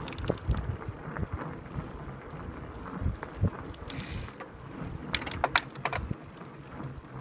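Mountain bike ridden over trail, its drivetrain and frame rattling and clicking with irregular low thumps over bumps. A dense run of clicks comes about five seconds in.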